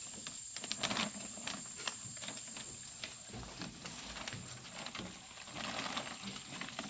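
Irregular soft crackling and scraping as powdered truck-wash concentrate is stirred into water in a plastic 5-gallon bucket, a little busier about a second in and again near the end.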